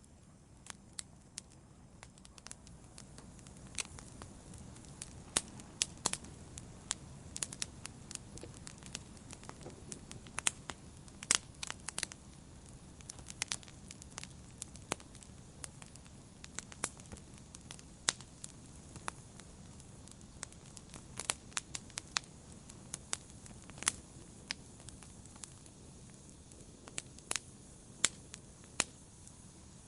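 Wood campfire burning, with a low steady rush of flame and irregular sharp crackles and pops from the burning wood.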